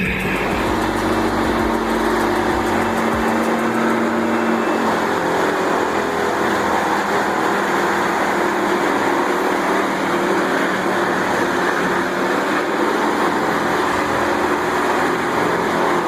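A large engine of heavy machinery running steadily under load, with a constant mechanical hum over a dense, even noise. A deep low rumble drops away about three seconds in.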